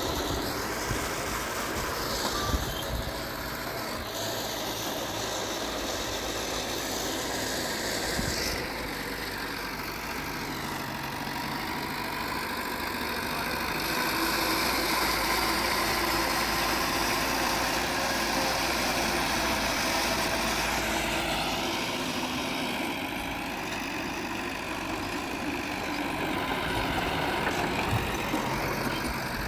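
Heavy diesel engines of earthmoving machinery running steadily, the load rising and falling a few times: louder from about halfway through, easing again near the end.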